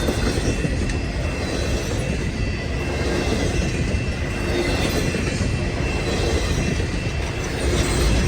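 Freight cars of a CN freight train rolling past, a steady rumble of steel wheels on rail with a thin, faint high-pitched squeal running through it.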